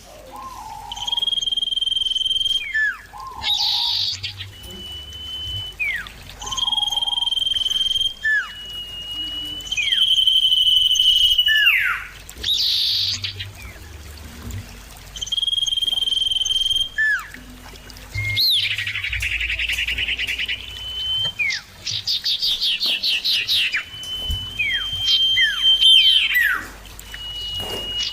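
Common ioras (cipoh) calling back and forth: long, steady high whistles, each ending in a quick downward slur, repeated every couple of seconds. A buzzy rattling trill comes in the middle.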